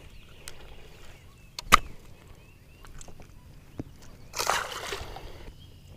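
Water sloshing and splashing against a fishing boat. There is one sharp click a little under two seconds in, and a burst of splashing about four seconds in.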